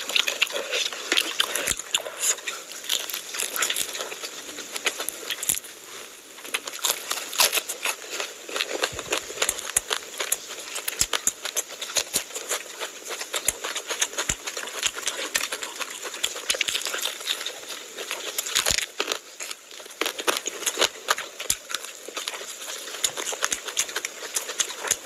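Close-miked eating sounds: chewing fried fish and rice eaten by hand, a dense, continuous run of crackly, wet mouth clicks and smacks.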